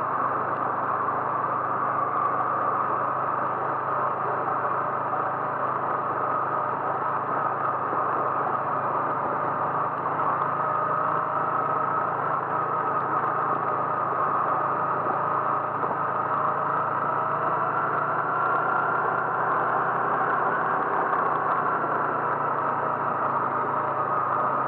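A vehicle running steadily: a continuous engine drone with road and wind noise, its pitch drifting only slightly.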